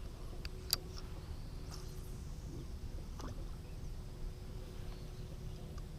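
A few sharp clicks over a faint steady background hum, the loudest click just under a second in and fainter ones near the start and about three seconds in.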